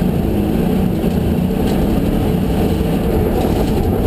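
Ford Mustang GTS rally car's engine running hard, heard from inside the cabin, its note rising and falling as the throttle is worked.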